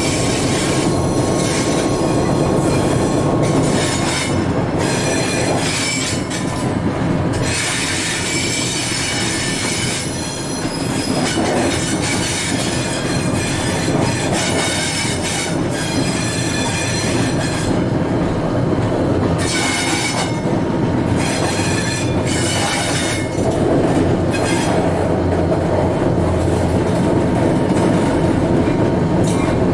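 Alco S4 switcher locomotive running, heard from its cab: a steady drone of the diesel and the rolling train, with a high-pitched squeal of wheels on the rails coming and going again and again.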